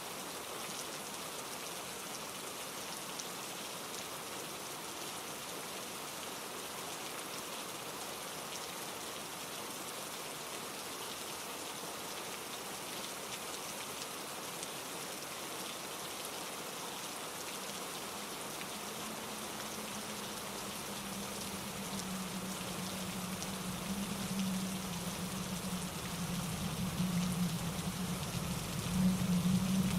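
Steady rain falling on leaves and branches. In the last ten seconds a low rushing sound swells in and grows louder.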